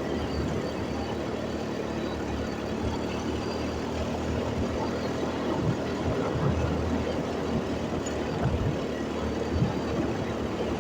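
Motorcycle running along the road, a steady engine hum under uneven low rumbles.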